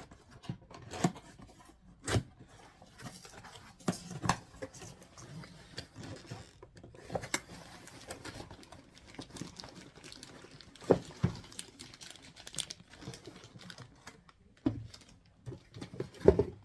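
A cardboard toy box and its packaging being opened and unpacked by hand: irregular rustles and clicks of handling, with a few sharper knocks.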